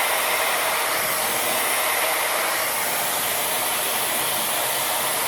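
Tymo Airhype Lite hair dryer running, blowing a steady, even rush of air.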